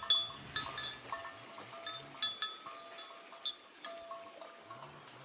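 Small metal bells clinking and ringing in short, irregular strokes at several pitches, over a steady high tone.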